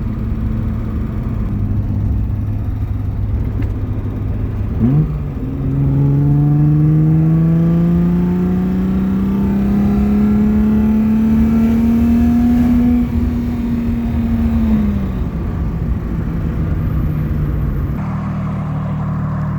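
Alfa Romeo GTV6's 2.5-litre Busso V6 engine under way: it runs steadily, gives a quick rev blip about five seconds in, then pulls through a gear with its note rising steadily for about eight seconds before easing off and settling back to steady running.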